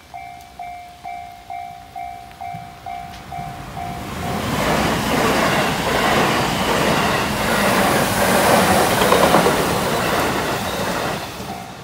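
Japanese railway level-crossing bell dinging steadily about twice a second. From about four seconds in, a passing train drowns it with loud rumbling and wheel clatter that builds to a peak and fades near the end. The crossing bell is heard again as the train clears.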